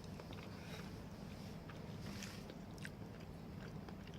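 Faint chewing of a mouthful of creamy macaroni casserole, with scattered small mouth clicks over a steady low hum.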